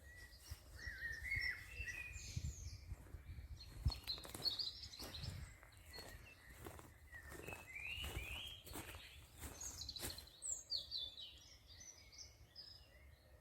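Songbirds chirping and twittering in short, overlapping phrases over a low rumble of outdoor background noise, with scattered soft knocks and clicks.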